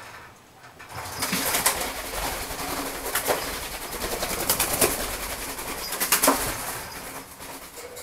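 Pet birds flapping their wings in flight, with a few short calls among the wingbeats.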